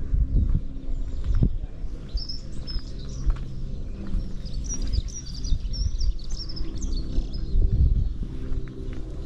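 Small birds chirping, a quick run of high calls from about two seconds in until near the end, over a steady low rumble.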